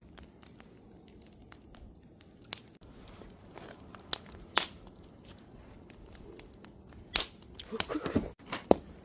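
Wood campfire crackling, with sharp pops of burning wood: single loud ones about two and a half, four and four and a half seconds in, and a denser run of pops near the end.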